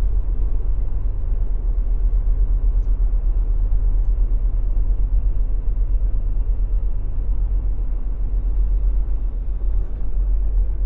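Semi-truck's diesel engine running, a steady low rumble with no change in pitch.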